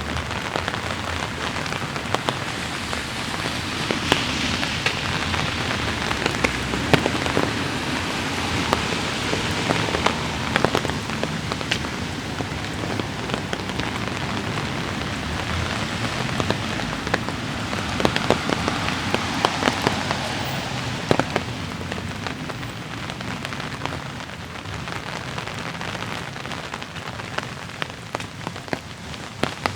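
Light rain falling, a steady hiss with many sharp drop ticks scattered through it.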